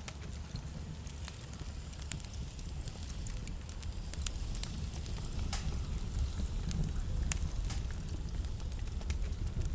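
Wood fire burning in a fireplace: a steady low rumble of the flames with frequent irregular crackles and a few sharper pops from the burning logs.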